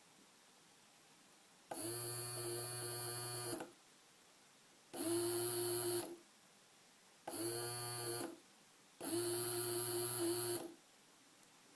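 Small DC motor, driven from an Arduino through an L293D driver chip, running with a buzzing hum and high whine. It is switched on four times, for about one to two seconds each, stopping in between.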